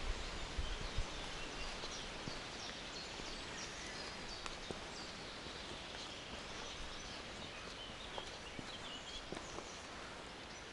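Forest birdsong: several small birds chirping and trilling on and off, with a few soft footstep clicks and a brief low wind rumble at the start.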